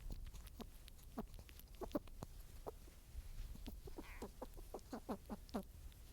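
Short, low animal calls, each sliding down in pitch, repeated in irregular runs that come faster near the end.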